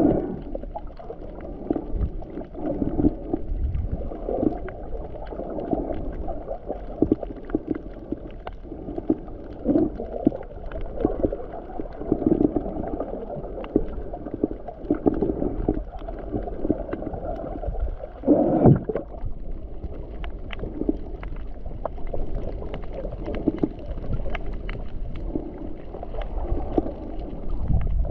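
Muffled water sloshing and gurgling in uneven surges, with a louder surge about two-thirds of the way through.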